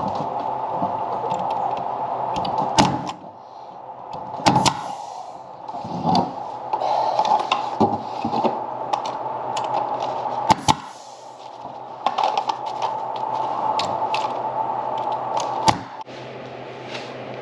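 Staple gun driving staples into wooden beehive frames: about five sharp shots at irregular spacing over a steady machine hum.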